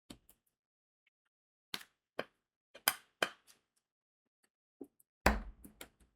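Diamond painting work: crystal rhinestones being pressed onto the adhesive canvas with a drill pen, giving scattered sharp clicks and taps at irregular intervals. A heavier knock comes about five seconds in.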